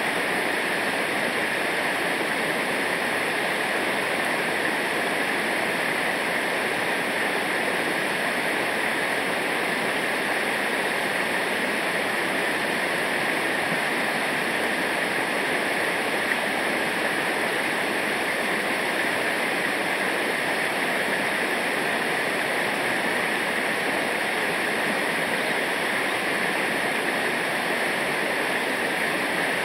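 Steady rush of river water over rapids or a waterfall, unbroken and even in level throughout.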